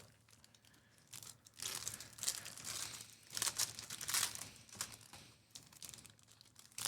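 Foil wrappers of Donruss baseball card packs being torn open and crinkled by hand: an irregular run of rustles starting about a second in.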